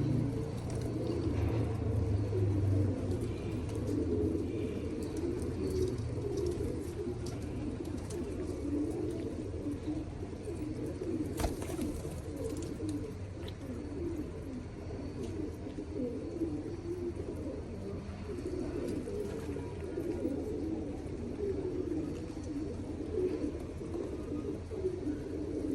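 Many domestic pigeons cooing at once, a dense, unbroken chorus of overlapping low coos. A low hum sits under it for the first few seconds, and a single sharp click comes about halfway through.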